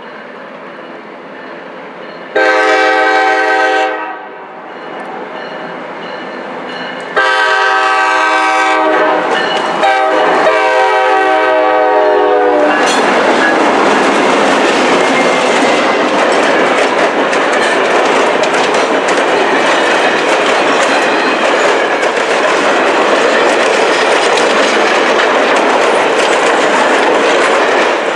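Train horn sounding three blasts: a short one, then two longer ones close together. The train then passes close by with a loud rush of wheels clacking over the rail joints.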